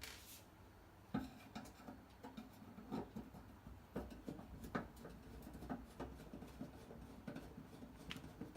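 Irregular light clicks and knocks of tools and metal parts being handled while a gas stove is taken apart.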